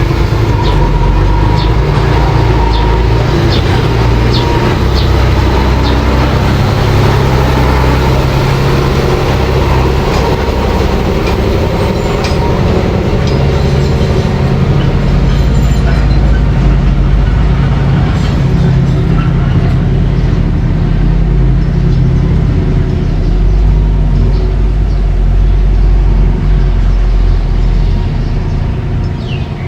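Mini bulldozer's engine running steadily under load, with scattered clicks and clanks, easing off slightly near the end.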